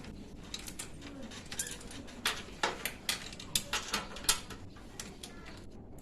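Irregular light clicks and knocks of tools and parts being handled, loudest and most frequent from about two to four and a half seconds in.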